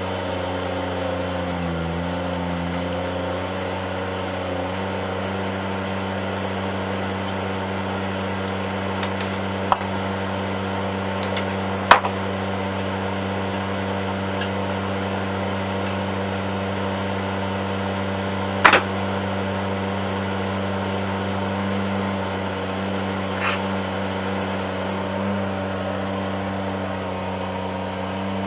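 Mini excavator's engine running steadily, its pitch wavering briefly near the start, with three sharp knocks spread through.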